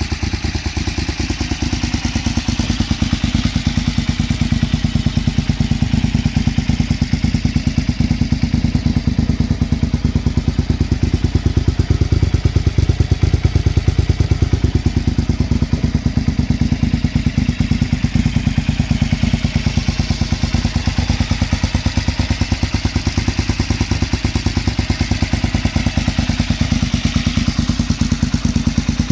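KTM 950 Supermoto's V-twin engine idling steadily through an aftermarket Bzl exhaust, with an even, rapid exhaust pulse.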